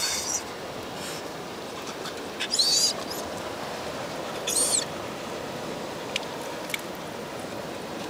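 High, squeaky bird calls, three short ones about two seconds apart in the first five seconds, over a steady background wash of noise.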